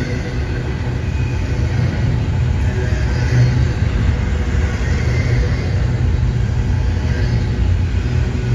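Steady low rumble of a passing train, with faint steady tones higher up.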